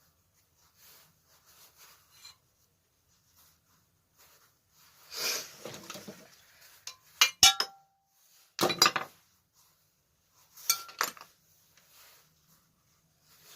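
Metal engine parts and tools being handled on a workbench: a scrape, then several sharp clinks and a short clatter of metal on metal, one clink ringing briefly.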